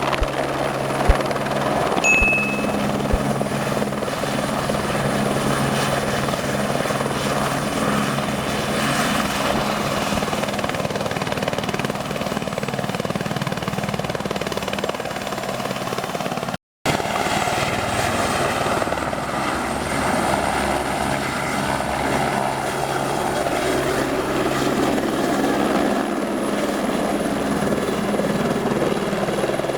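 Helibras Esquilo helicopter running close by: a steady rotor thrum with a faint high turbine whine. A short high beep about two seconds in; the sound cuts out for a moment a little past halfway, then carries on.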